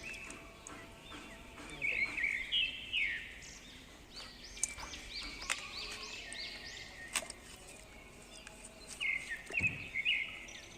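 Small birds chirping in short bursts of quick rising-and-falling chirps, with a few sharp clicks between them.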